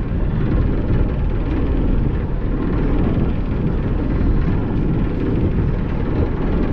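Steady low rumble aboard the 1951 ferry Thomas Rennie under way, with no breaks or distinct events.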